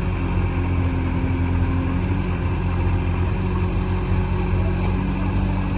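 Heavy diesel engine running steadily with a low, even hum, from the backhoe loader and tractor at work loading soil.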